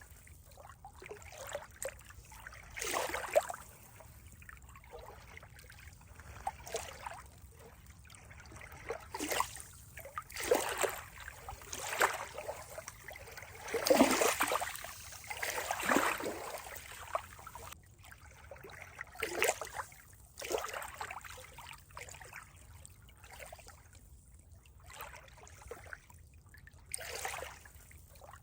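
Water trickling and gurgling, as in a small stream, in uneven splashes that come thickest around the middle.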